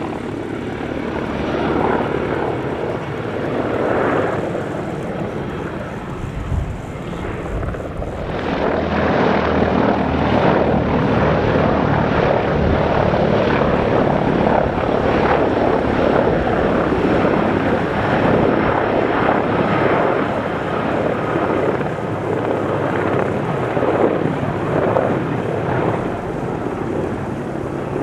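Helicopter in flight, its rotor and turbine noise steady and loud, swelling louder about eight seconds in.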